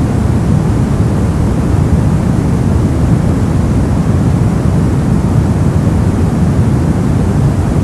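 Steady brown noise: an even, deep rushing hiss with most of its energy in the bass. It carries no rhythm and does not change.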